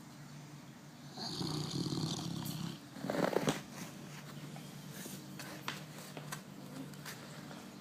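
A Cane Corso dog snoring in its sleep: a long snore about a second in, then a louder one around three seconds in, followed by a few short clicks.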